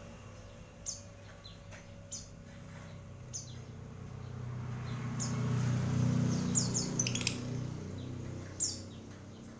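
Small cage bird giving short, sharp high chirps that drop in pitch, spaced a second or so apart, with a quick run of them about seven seconds in. A low hum swells under them through the middle and fades.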